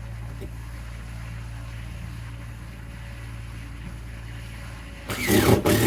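A steady low mechanical hum, then a loud harsh burst with a falling pitch starting about five seconds in.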